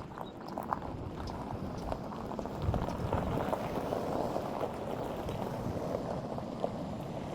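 Road noise from a vehicle driving: a steady rush with scattered clicks and rattles, swelling a little about a third of the way in.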